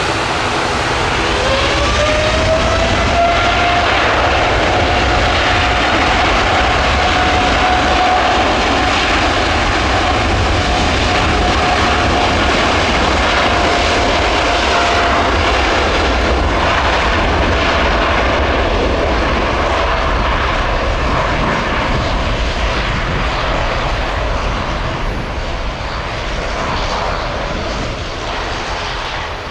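American Airlines Boeing 787-9's twin GEnx turbofans running up to takeoff power: a loud, steady jet roar with a whine that rises in pitch about a second in and then holds. The level eases slightly near the end.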